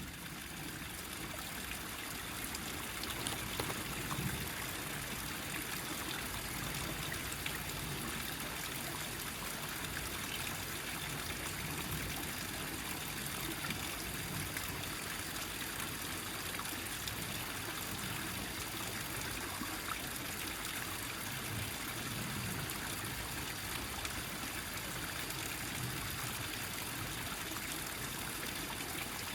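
Small mountain stream, wet from rain, running and trickling steadily over rocks in a gathered flow.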